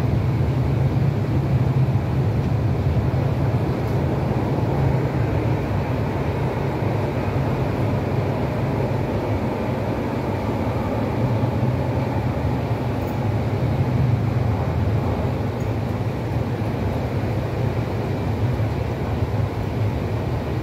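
Cabin noise of an MTR East Rail Line R-train electric multiple unit running at speed between stations: a steady, low rumble of wheels on rail and running gear.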